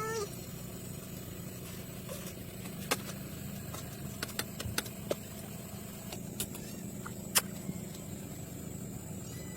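A steady low motor hum with scattered sharp clicks and knocks, the loudest knock about seven seconds in.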